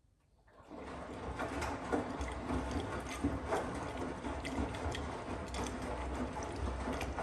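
Miele W1 washing machine starting up again after a near-silent pause, about half a second in. It runs steadily: a low motor hum with many small clicks and a watery hiss as the drum turns.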